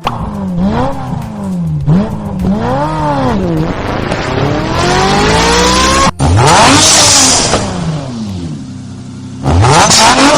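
Car engine revving up and down again and again, its pitch rising and falling in quick sweeps, with a hissing noise swelling in the middle.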